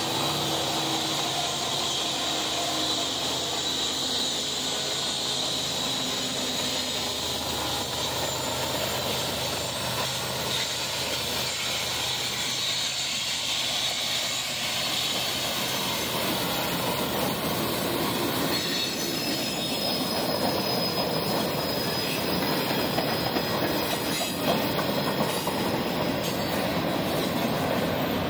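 Norfolk Southern diesel locomotive going past in the first few seconds, then a long mixed freight train rolling by close up as it climbs a grade, wheels squealing steadily over the continuous rumble and clatter of the cars.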